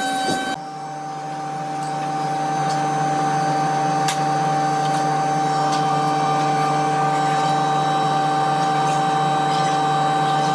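Electric power tool motor running with a steady whine, growing louder over the first couple of seconds and then holding even.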